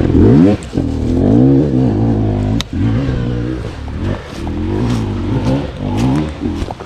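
Dirt bike engine being revved up and down over and over, its pitch rising and falling several times, as a rider tries to get up a steep, rough hill. A sharp click about two and a half seconds in.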